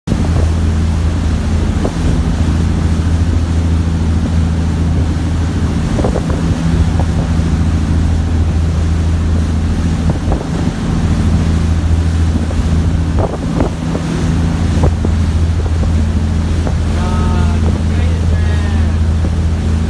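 Ferry's engine running with a steady low drone, with wind noise on the microphone and the wash of water.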